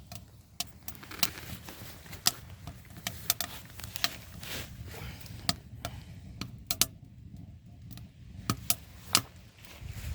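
Wood fire crackling in a small tent-stove firebox: irregular sharp pops and snaps, about two a second, over a steady low background noise.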